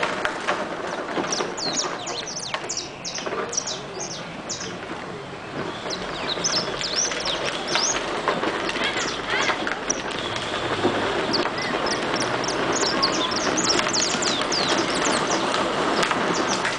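Small birds chirping in many quick, high notes over a loud, steady rumble of background noise.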